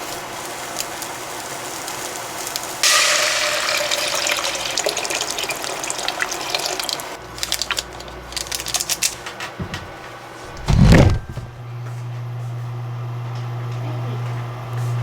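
Kitchen tap water running into a sink, starting suddenly about three seconds in. It is followed by light clattering of dishes or utensils and a single loud thump, then a steady low electric hum.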